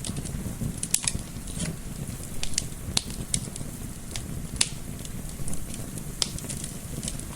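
Wood fire crackling, with irregular sharp pops and snaps over a low, steady rumble of gentle wind.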